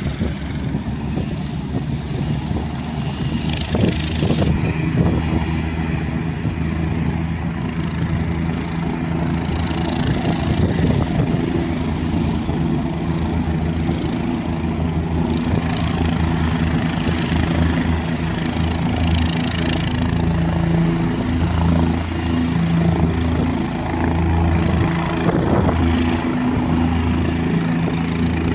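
Firefighting helicopter running steadily, its engine and rotor making a continuous drone with a pulsing low beat.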